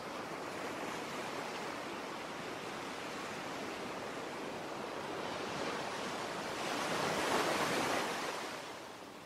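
Ocean waves washing on a shore: a steady rush that swells into a louder breaking wave about seven seconds in, then draws back.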